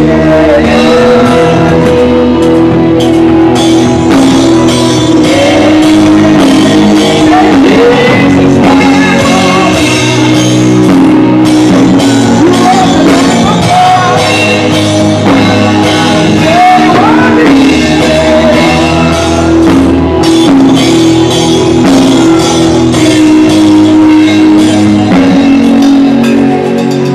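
Gospel choir singing with a live band, drums included, loud and continuous throughout.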